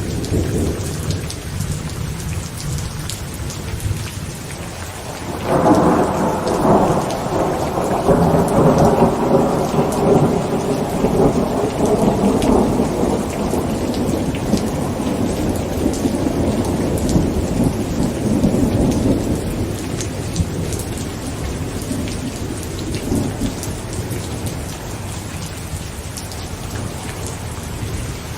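Heavy rain falling on a tent, with a steady hiss and fine drop ticks. A long thunder rumble rolls in about five seconds in and dies away by about twenty seconds, and another rumble begins at the very end.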